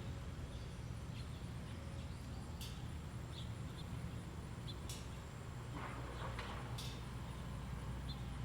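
Small birds at a feeder giving short, scattered chirps, with a few sharp clicks and a brief rustle about six seconds in, over a steady low rumble.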